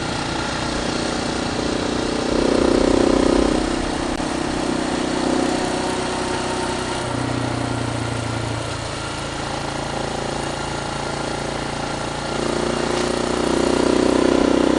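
Motorcycle engine running under way, getting louder about two seconds in, easing off through the middle and picking up again near the end.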